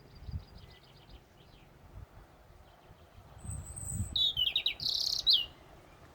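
European robin singing: a faint quick trill at the start, then about three and a half seconds in a loud, varied phrase of thin high whistles, falling sweeps and a fast chatter. Low rumbling sits underneath.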